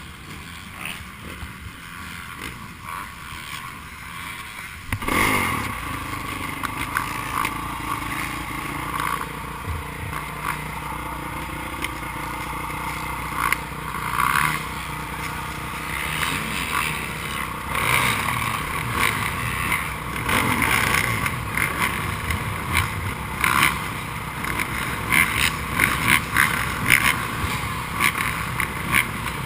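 Motocross dirt bikes racing, their engines revving and blipping. The sound gets suddenly louder about five seconds in and stays busy with quick rises and falls in engine pitch after that.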